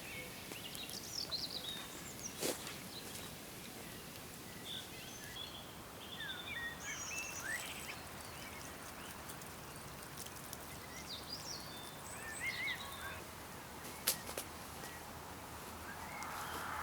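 Small birds chirping in short, scattered calls over quiet outdoor ambience, with two sharp clicks, one early and one near the end.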